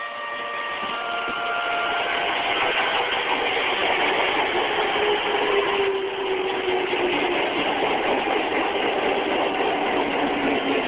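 Electric commuter train on the Musashino Line running at the platform: a steady rolling rumble with a motor whine that slides slowly lower partway through. A few fading chime notes linger at the start.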